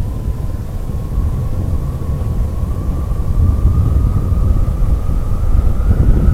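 Motorcycle riding along at speed: a heavy wind rumble on the microphone, with a thin steady whine that slowly rises in pitch and grows a little louder toward the end.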